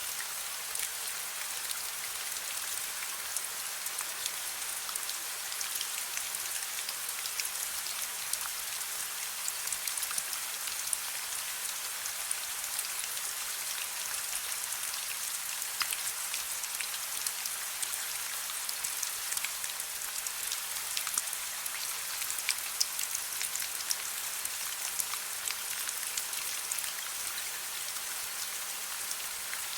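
Steady rain falling, an even hiss scattered with many small, separate drop hits.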